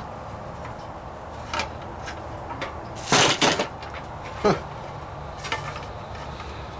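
Hammer striking a steel floor pan patch while tapping a stiffening bead into it: a few scattered metallic knocks, with a cluster of hits about three seconds in and a single sharp strike about a second later.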